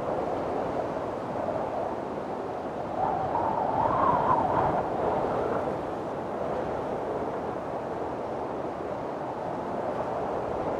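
Windstorm wind blowing as a steady rushing, with a louder gust about three seconds in that rises in pitch and dies back by about five seconds.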